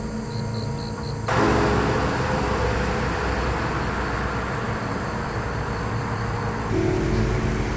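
Road traffic: a steady rush of passing vehicles that starts abruptly about a second in.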